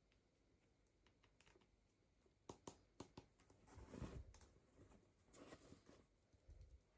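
Faint handling of toy packaging: a few light plastic clicks, then soft rustling about halfway through and again near the end.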